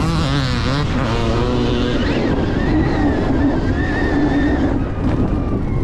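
Stark Varg electric dirt bike being ridden on a motocross track: the electric motor's whine rises and falls with the throttle over a constant rush of wind on the microphone.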